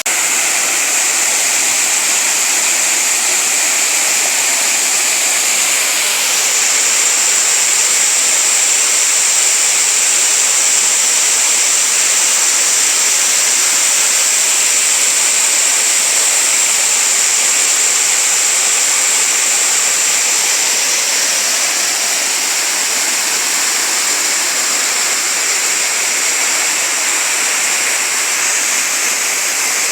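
Small waterfall: water falling and rushing over rocks in a steady hiss, growing slightly louder about six seconds in.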